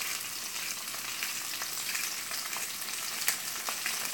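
Diced potatoes frying in hot oil in a pan: a steady sizzle with scattered small crackles.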